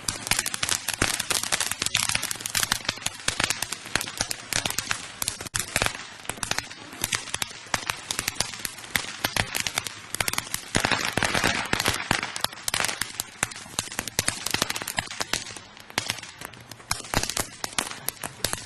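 Consumer fireworks crackling and popping in a rapid, continuous string of sharp reports, with a stretch of hissing near the middle.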